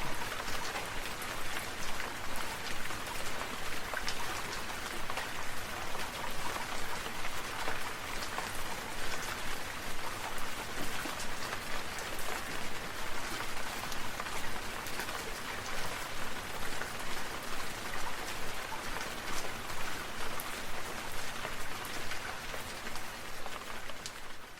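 Steady, dense patter of falling water drops striking a surface, like rain: an even hiss made of many small drop impacts.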